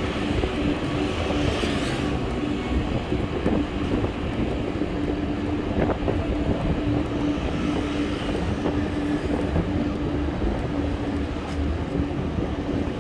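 Steady rumble and rushing noise of a bike ride, with a steady low hum that runs throughout.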